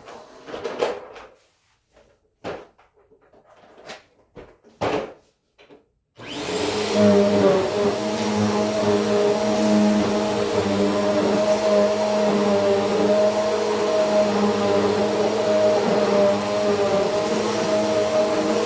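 A few light knocks and clatters, then about six seconds in a vacuum cleaner switches on and runs steadily with a motor whine.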